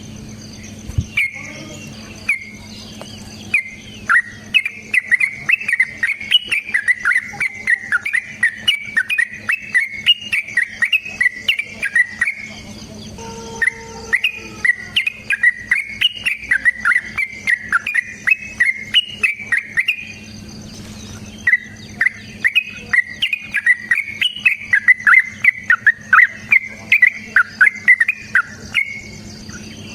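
Yellow-vented bulbul (trucukan) singing its long, rapid chattering song: three long runs of quick, sharp notes, each several seconds long, with short gaps between. A steady insect trill and a low hum run underneath.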